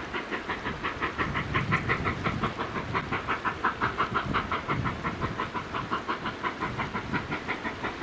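Durango & Silverton narrow-gauge steam train running, with an even, fast rhythmic beat of about six strokes a second over a low rumble.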